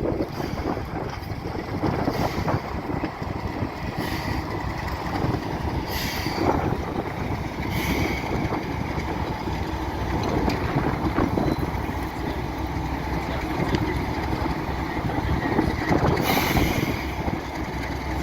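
Heritage diesel train running steadily, with engine and running noise throughout and a few brief surges of higher hiss.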